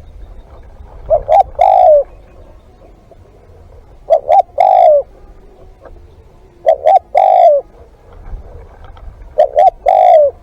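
Spotted dove cooing close by: four phrases, each two short notes followed by one longer coo, repeating about every two and a half to three seconds.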